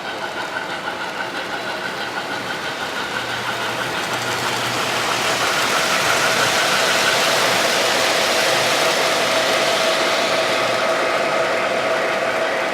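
A train running past, growing louder over the first half and then holding, with a steady rushing noise and a few high steady whining tones over it.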